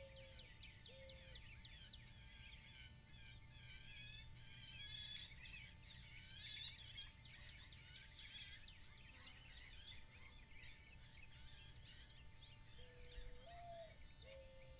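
Outdoor bird chorus: many small birds chirping and trilling over one another, busiest in the middle, with short low calls repeating near the start and again near the end. A faint steady hum runs underneath.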